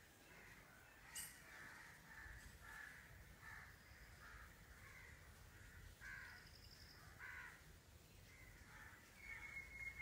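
Faint, repeated short bird calls, one after another at irregular spacing. A steady high-pitched tone comes in near the end.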